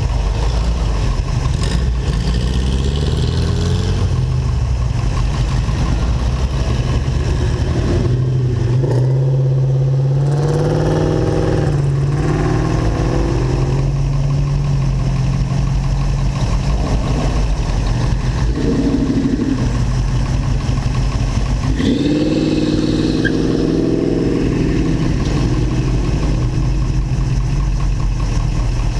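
Vintage car's engine idling steadily close to the microphone. Twice, other cars drive past and accelerate away, their engine note rising over the idle.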